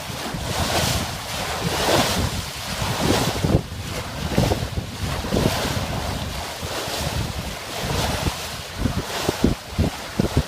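Wind buffeting the microphone over water rushing along the hull of a sailboat under sail, rising and falling in uneven surges, with a few low thumps of wind near the end.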